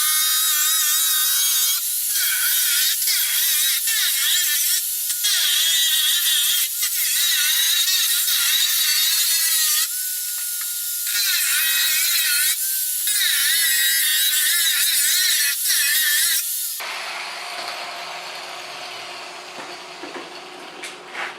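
Angle grinder whining at high pitch as it cuts the plastic lens of a BMW E39 headlight around its edge, the pitch wavering with load and broken by several short gaps. About 17 seconds in it gives way to a lower, even noise that fades away.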